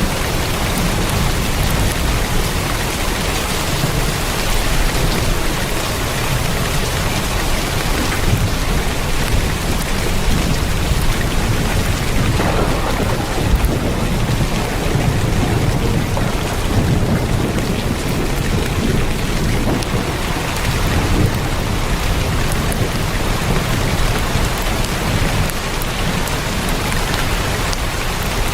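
Heavy rain drumming steadily on a tin roof, a dense unbroken patter with a deep low rumble underneath.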